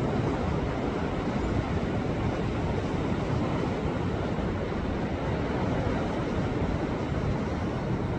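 Sea waves surging against a rocky shore: a steady, continuous rush of surf with no separate crashes standing out.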